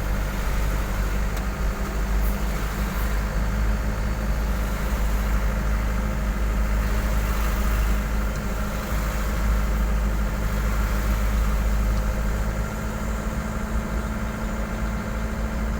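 A vehicle engine idling steadily at low revs: a continuous low hum that holds the same pitch throughout.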